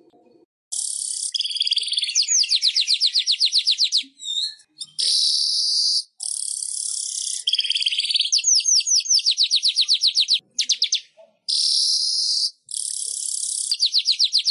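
Weaver bird (manyar) song: phrases of high buzzy hissing alternate with fast trains of sharp ticking notes, about ten a second, repeated again and again.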